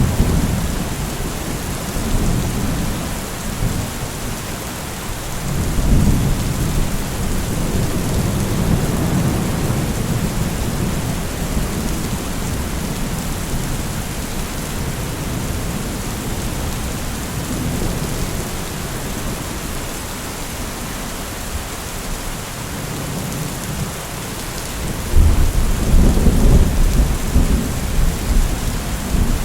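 Steady rain falling, with rolling thunder rumbling in low swells; the loudest rumble comes near the end.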